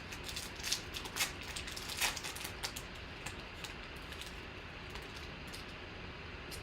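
Trading cards and pack wrapping being handled: quick soft clicks and rustles, several in the first few seconds and sparser after, over a low steady hiss.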